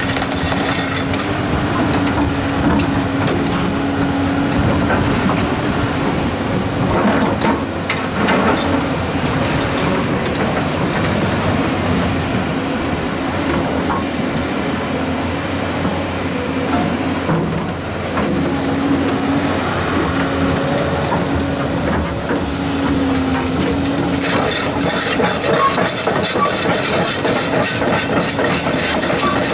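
Komatsu hydraulic excavators working rock: engine running with a steady hum that wavers a little, a few knocks, and a dense rattling clatter in the last five seconds.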